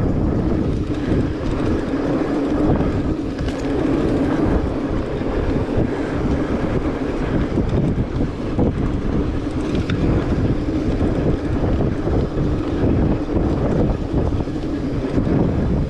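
Steady wind rumble on the microphone of a moving fat bike, mixed with the rolling noise of its studded tires.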